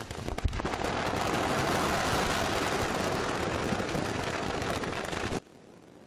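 A large pile of confiscated fireworks, commercial and homemade, being detonated at once: a dense, continuous crackle of many firecrackers and bangs, with a heavy bang about half a second in. It cuts off abruptly near the end, leaving only a faint background.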